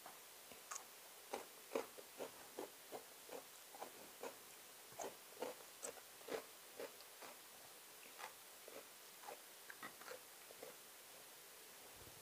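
A person chewing with the mouth open: faint, short wet smacks and clicks, two or three a second, as sticky rice and salad are eaten.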